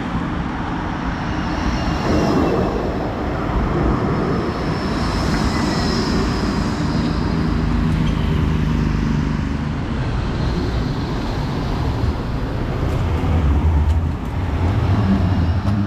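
Tram running: a steady rumble of wheels and motors, with a faint high whine that rises and falls.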